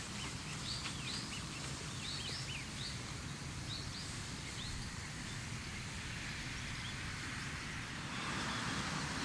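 A small bird chirping in quick short notes, about a dozen in the first five seconds, over a steady low outdoor rumble. About eight seconds in, a steady hiss grows louder.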